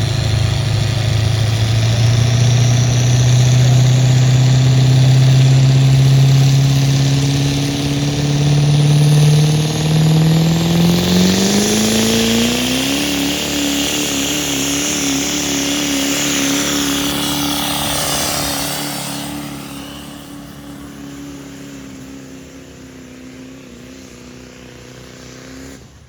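Diesel pickup truck engine working under load on a truck pull. It holds steady revs, climbs sharply in pitch about halfway through and holds there, then grows steadily fainter near the end.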